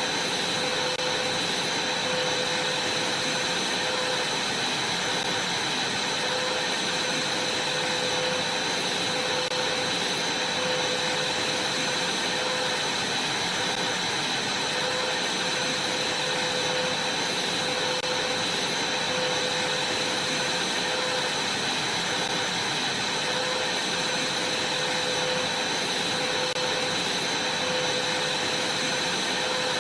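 Vacuum cleaner running steadily: an even rushing hiss with a constant high whine and a lower hum.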